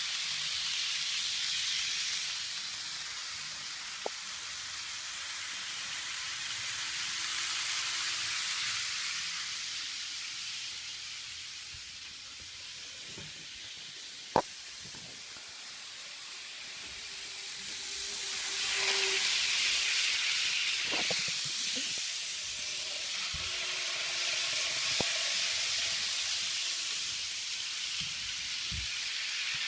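KATO model steam train running around its track: a steady high whirring hiss of the motor and wheels on the rails that swells and fades as the train passes near and away, with a few sharp clicks, one louder than the rest about halfway through.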